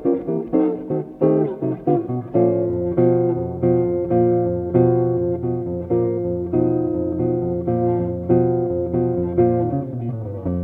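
Solo jazz guitar playing a bebop line in B-flat minor sixth diminished. It opens with a quick run of single notes, and about two seconds in turns to rhythmic chord stabs over a held bass note.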